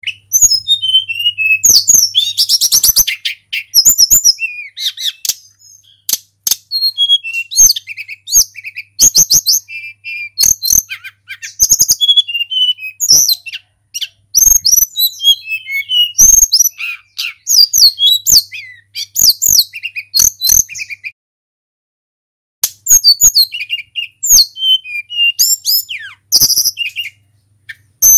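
Tledekan gunung flycatcher singing a long run of rapid, varied high whistled phrases with quick up-and-down glides, broken by short pauses, one longer pause about two-thirds of the way through.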